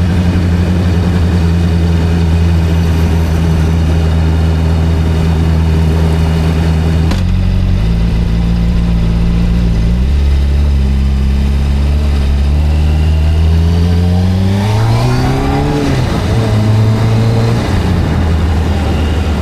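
Video-game motorcycle engine running steadily, stepping in pitch a couple of times, then climbing steeply in pitch as it revs up and dropping back off about three-quarters of the way through.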